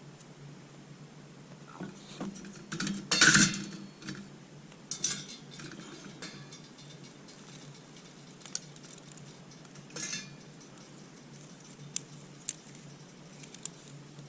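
A metal cooking utensil clinking and scraping against cookware, loudest in a short clatter about three seconds in, followed by scattered lighter clicks and knocks.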